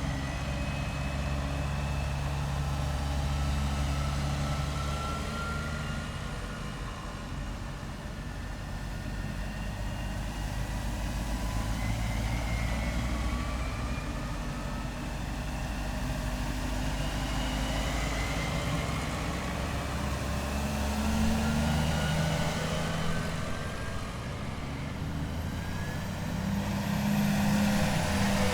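Heavy military vehicles driving past in a column: a steady low engine hum with whining tones that glide in pitch as vehicles approach and go by, swelling louder several times and most of all near the end.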